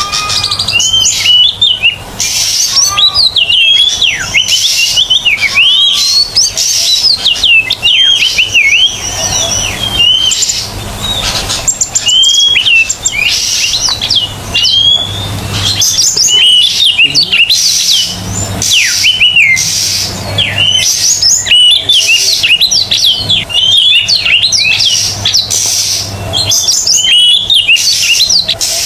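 Oriental magpie-robin (kacer) singing in full, loud song: a continuous, varied run of quick whistled notes that sweep up and down, barely pausing.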